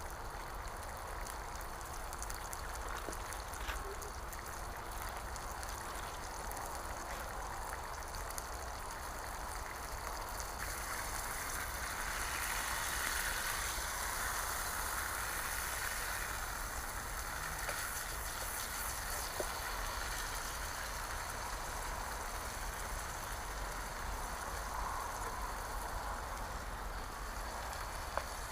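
Smoked back bacon sizzling in a frying pan over campfire coals: a steady hiss with a few small crackles, swelling slightly midway, over a low steady rumble.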